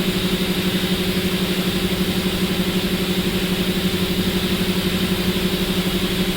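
A machine running steadily: an even hum with a rapid, regular pulse.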